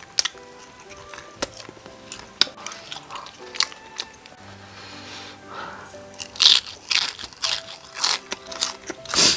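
Close-up eating sounds: crunchy bites into the crisp batter of Korean market-style fried chicken, followed by chewing, with the loudest crunches in the last three seconds.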